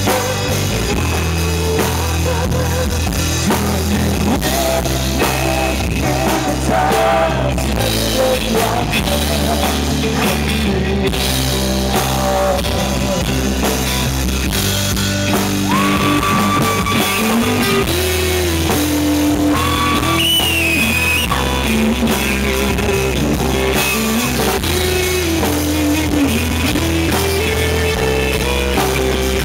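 A live rock band playing drums, bass and guitar in an unsung passage of the song, with a held, sliding lead melody entering about halfway through.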